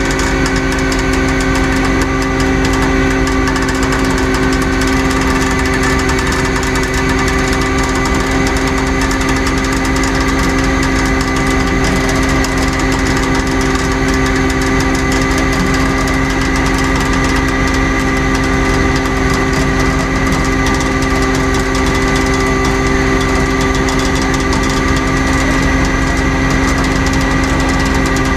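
Tow truck's engine running steadily during a winch recovery, a constant, unchanging drone with a steady whine above it.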